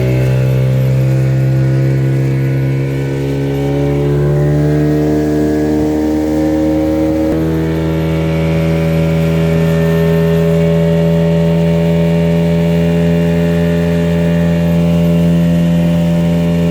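Motorboat engine running steadily under way, then picking up speed about seven seconds in.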